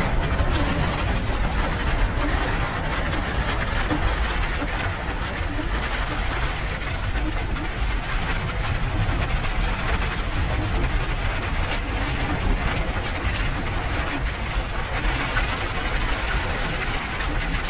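Steady rain noise, an even hiss, with a deep continuous rumble underneath.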